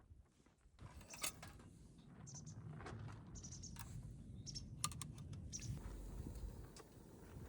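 Wood fire in a campfire stand crackling and popping, with sharp snaps about a second in and near five seconds, over a low steady rumble.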